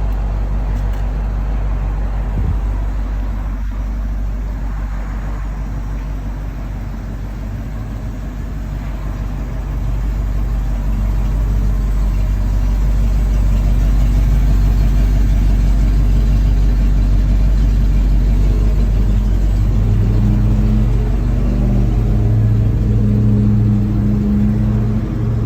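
1997 Ford F700 dump truck's engine running steadily. It gets louder about ten seconds in, and a deeper steady tone comes up strongly near the end.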